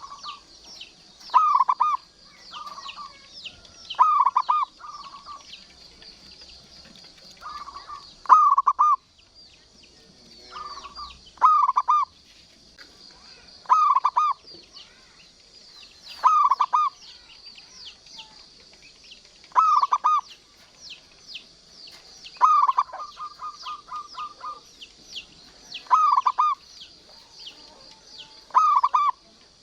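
Zebra dove (perkutut) cooing over and over, one short call every two to three seconds, with one longer run of quick repeated notes about two-thirds of the way through. Steady high-pitched chirping runs underneath.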